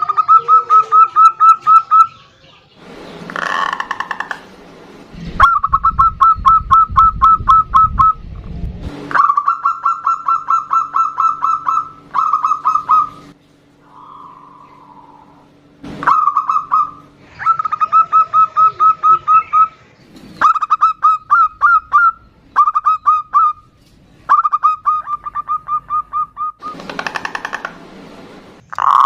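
Zebra doves calling back and forth: bouts of rapid, even trills of short notes, about seven a second and a few seconds each, with brief pauses between, and a fuller, deeper cooing phrase twice, near the start and near the end.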